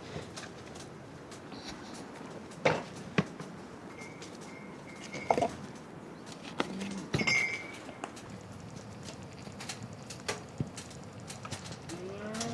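Camp cooking clatter: scattered knocks and clicks, with a couple of short metallic rings, like utensils and cookware being handled, over a steady background hiss.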